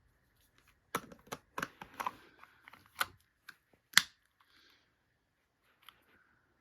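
Sig Sauer P365 XL pistol and magazine being handled: a run of sharp plastic-and-metal clicks and clacks over a few seconds, the loudest a single click about four seconds in.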